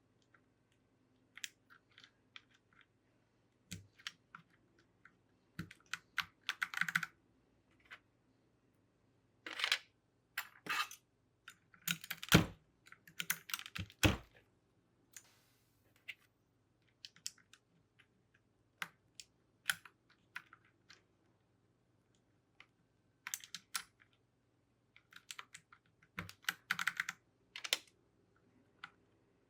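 Plastic keycaps being pressed onto a mechanical keyboard's switches: irregular clusters of sharp clicks and clacks with short pauses between, and two louder knocks about 12 and 14 seconds in.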